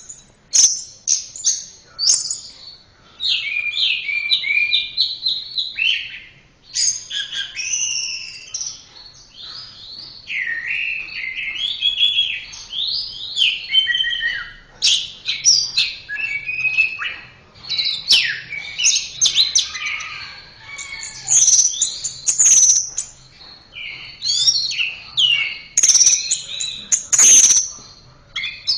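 Orange-headed thrush (anis merah) singing a long, varied song of rapid whistled and chirping phrases with sharp clicking notes mixed in, one phrase running into the next without a real pause.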